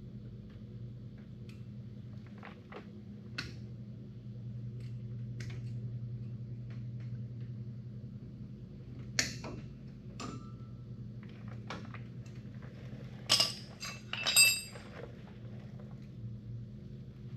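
Hand tools and metal parts clinking at a car's front wheel hub as the wheel-bearing spindle nut is set with channel-lock pliers. Scattered small clicks come over a steady low hum, with a sharp clink about halfway in and two louder ones near the end.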